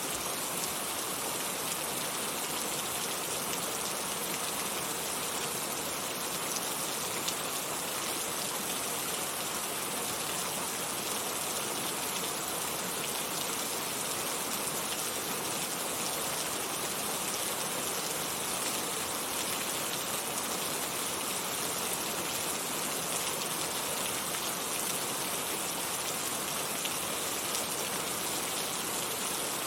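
Heavy rain falling steadily, a dense, even hiss of drops on surfaces with no pauses or changes.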